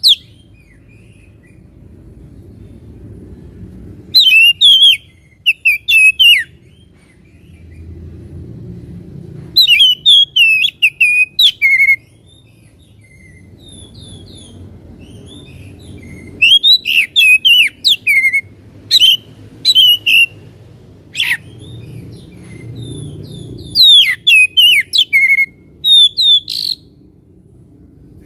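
Oriental magpie-robin (kacer) singing in four loud bouts of quick, varied whistled phrases with pauses between them, over a low background rumble.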